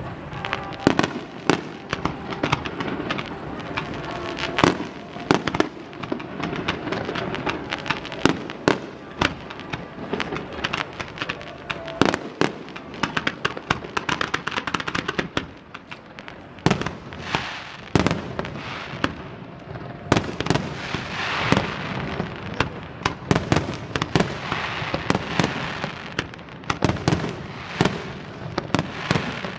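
Aerial fireworks display: firework shells bursting in quick, irregular bangs, often several a second, over a continuous noisy background of the barrage.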